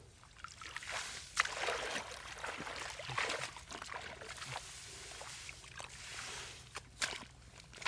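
Water sloshing and trickling in irregular bursts, with a few sharp clicks near the end.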